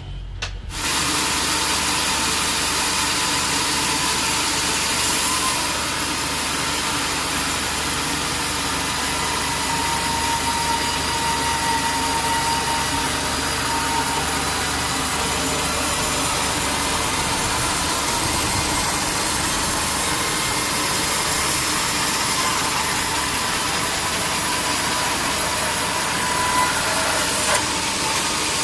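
Sawmill machinery running steadily: a dense, even mechanical noise with a thin steady whine through it.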